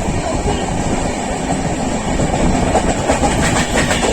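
Steady loud rumble of a moving vehicle, with a quick run of clicks and knocks joining about three seconds in.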